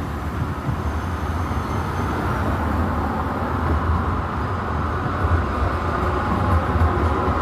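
Steady low rumble of vehicle noise with a broad hiss above it, with no distinct events.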